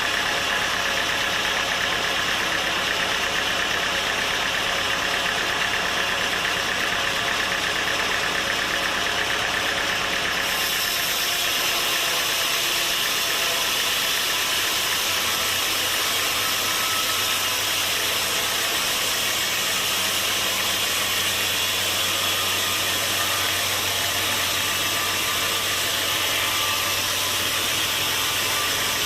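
Sawmill machinery running steadily. About ten seconds in, the sound changes: the low hum fades and a higher hiss rises.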